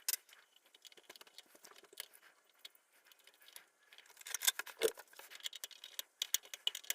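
Faint, scattered light clicks and rustles of small electronic parts and packaging being handled at a workbench, busier in the second half.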